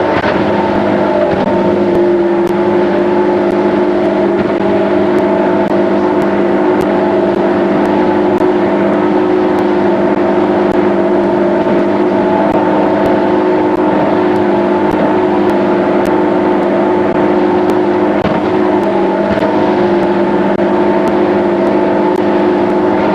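Boat engine running steadily under way, a loud, even drone that holds one pitch throughout.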